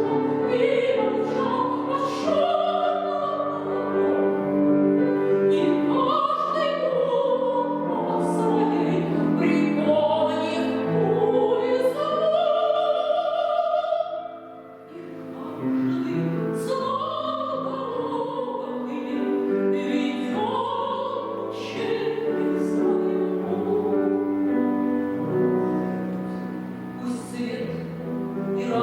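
A woman singing in a trained, operatic style with vibrato, accompanied by grand piano. The music drops away briefly about halfway through.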